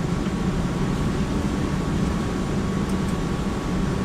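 Steady hum of background machinery or ventilation: an even low drone with a faint steady high whine, no distinct events.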